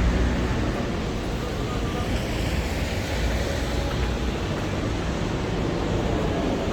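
Street traffic on a wet road in the rain: a steady hiss of rain and tyres with the low rumble of passing vehicles, strongest at the start and easing after about a second.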